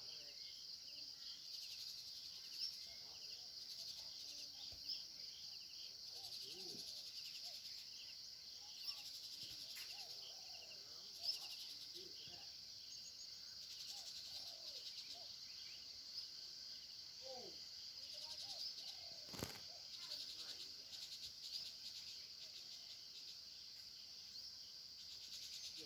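A faint, steady chorus of insects such as crickets, a continuous high shrill hum, with scattered faint bird calls and an occasional sharp click.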